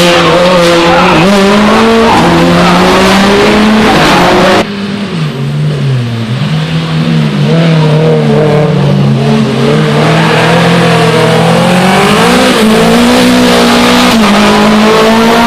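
Rally car engines revving hard, the pitch rising and falling with throttle and gear changes, with tyre noise and squeal from cars sliding through corners. The sound changes abruptly about four and a half seconds in, to another car or another pass.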